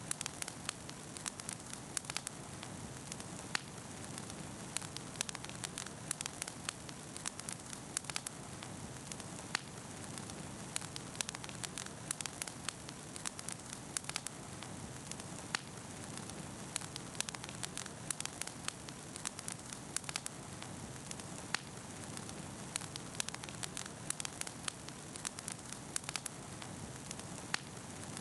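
Wood campfire burning, with frequent irregular crackles and pops over a steady hiss.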